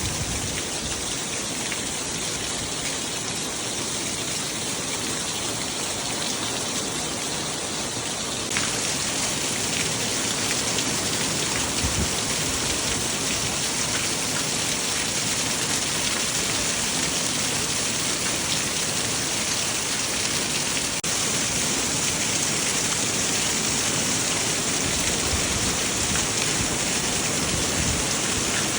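Heavy rain pouring down steadily as a dense, even hiss, stepping up louder about a third of the way through and holding there.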